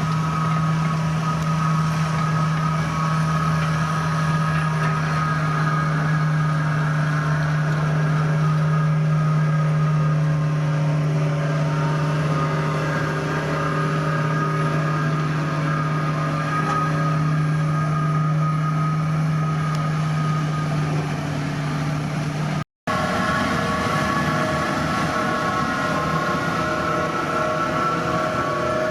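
Heavy diesel construction machinery running steadily, a continuous engine drone with a strong low hum and higher whining tones. About two-thirds of the way through the sound cuts out for an instant and comes back with a different set of tones.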